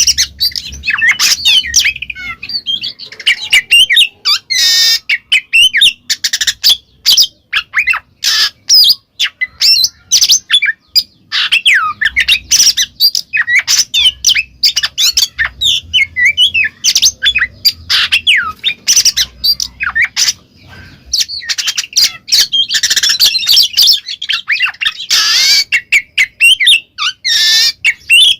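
Oriental magpie-robin (kacer) singing loudly and without pause in the full 'ngeplong' style: a fast, varied run of whistled glides mixed with harsh, squawking notes and sharp clicks.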